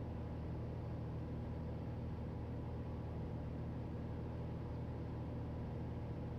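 Steady in-flight cabin drone of a 1968 Cessna 182L Skylane's O-470 engine and propeller, an even low hum with several steady tones and no change in pitch.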